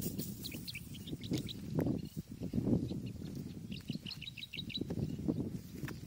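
A small bird chirping in two quick runs of short high notes, one about half a second in and one around four seconds in, against low rustling and soft knocks as the cast net is handled.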